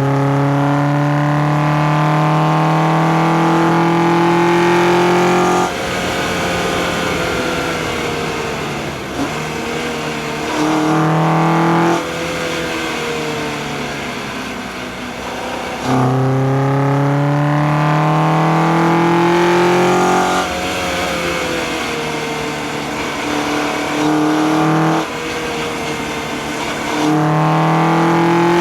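The 2004 Acura TSX's K24A2 2.4-litre four-cylinder engine pulling under load, its pitch climbing slowly through several long stretches. Each stretch cuts off suddenly as the throttle is lifted, leaving quieter falling engine tones while coasting.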